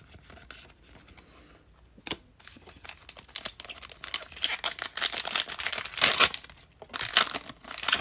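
A baseball card pack's wrapper being torn open and crinkled by hand. After a quiet first couple of seconds there is a click, then a run of crackly crinkling that is loudest about six seconds in.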